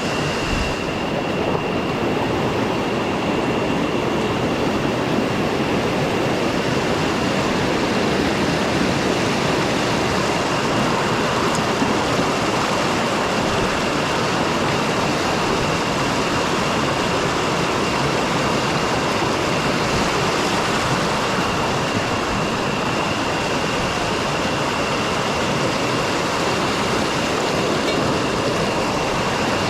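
River water rushing steadily over rocks and small cascades, a loud unbroken rush.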